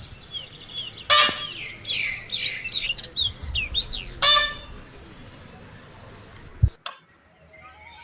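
Birds chirping and twittering in quick, varied whistles. Two loud, harsh, horn-like bird calls cut through, about a second in and again about four seconds in. The birdsong stops abruptly near the end.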